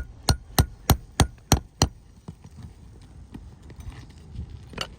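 Shingle hammer striking a nail-removal tool to work a roofing nail out from under an asphalt shingle: seven sharp metal blows, about three a second, then a few faint taps. The hammering leaves a deep line across the top of the shingle.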